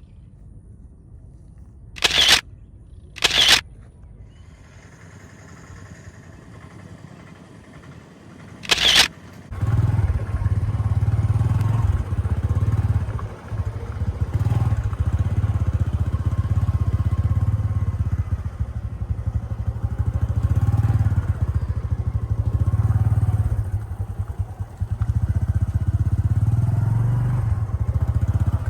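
Three short, sharp noises, then a small vehicle engine starts about nine seconds in and runs steadily at a low hum.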